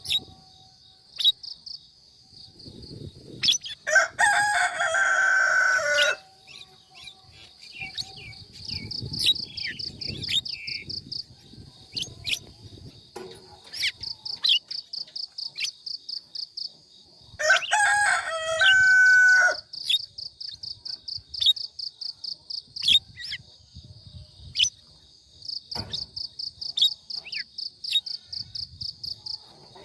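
Birds calling outdoors: two loud calls, each about two seconds long and some thirteen seconds apart, over a rapid, high, pulsing insect-like trill that comes in repeated bouts, with scattered short clicks.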